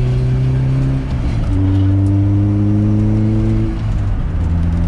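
Honda CRX's four-cylinder engine accelerating through the gears, its exhaust quietened by a newly fitted rear muffler: the engine note climbs slowly, drops at a gear change about a second in, climbs again, and drops at another shift near the end.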